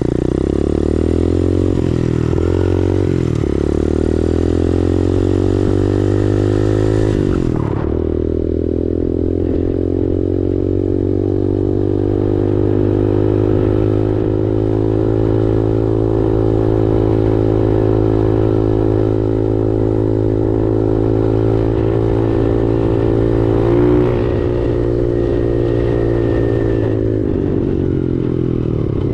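X-Pro Storm 125cc pit bike's single-cylinder four-stroke engine accelerating hard through the gears, its pitch climbing and dropping with each shift. It is then held flat out near top speed for most of the run, and drops as the throttle eases off near the end.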